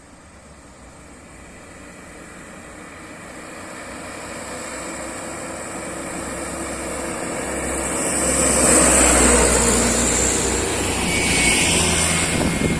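A motor vehicle approaching, its engine and tyre noise growing steadily louder until it passes close about nine seconds in.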